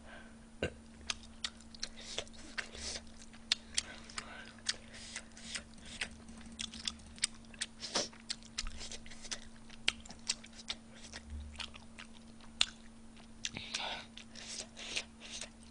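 A person chewing food close to the microphone: quick, irregular mouth clicks, a few each second. A faint steady hum runs underneath.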